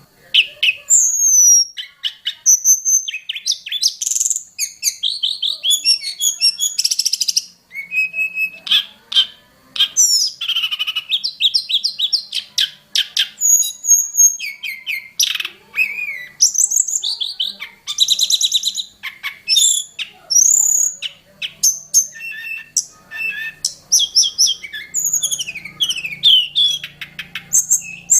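Tledekan gunung singing a loud, fast, varied song of chirps, rapid trills and slurred whistles, phrase after phrase with only brief pauses.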